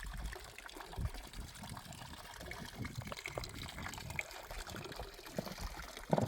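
Running water trickling, with uneven low rumbles and small scattered clicks, and a brief louder sound just before the end.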